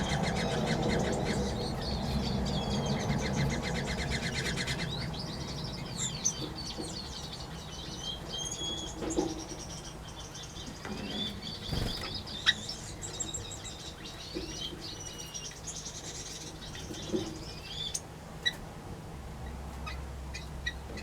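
Small aviary birds chirping and twittering with short high whistled calls, among a few wing flaps. A fast rattling sound fills the first five seconds.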